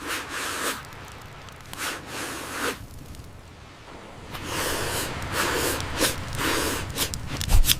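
Repeated hard blowing of breath onto kindling to get a fire going without a lighter: three short puffs, then longer, stronger blasts, with a few sharp clicks near the end.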